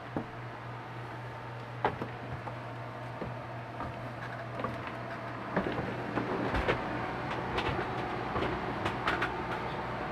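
Boat's air conditioner running with a steady low hum, under scattered knocks and clicks of footsteps and handling going below, one about two seconds in and more from about five and a half seconds on.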